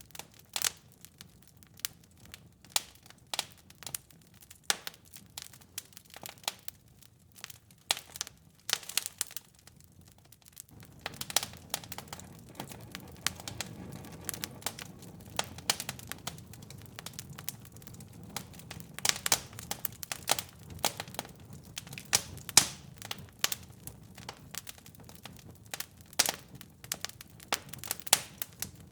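Wood fire crackling, with irregular sharp pops and snaps. About a third of the way in, a low steady rush of flames rises beneath the pops.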